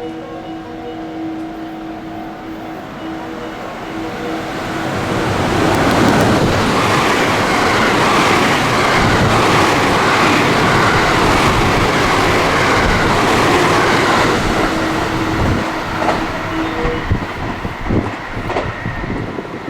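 A train passing through at speed: the rumble of wheels on rail builds over a few seconds, holds for about eight seconds, then eases off with distinct clacks from the wheels over rail joints near the end.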